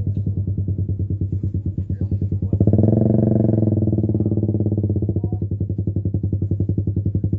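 A small engine chugging steadily at about ten beats a second, growing louder and fuller for a couple of seconds from about two and a half seconds in.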